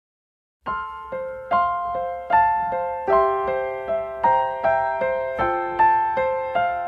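Gentle piano-like keyboard music: a slow melody of single struck notes, each ringing and fading, about two or three a second. It begins after a short silence at the very start.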